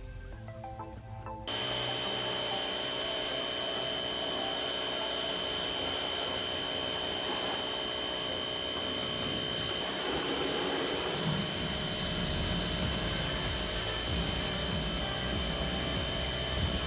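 Brief quiet music, then about a second and a half in a machine driven by an electric motor starts abruptly and runs steadily, a loud rushing noise with a high whine held on one pitch.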